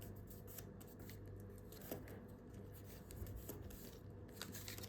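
Faint rustling and soft crinkling of a sheet of A4 paper being folded and creased by hand, with a few scattered light ticks, over a low steady hum.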